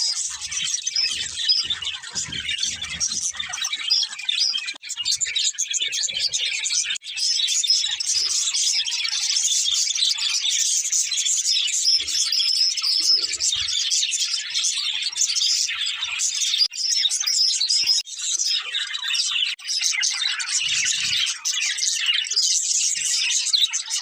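A flock of budgerigars chirping and warbling in a dense, unbroken chatter, with a few soft low thumps in the first few seconds.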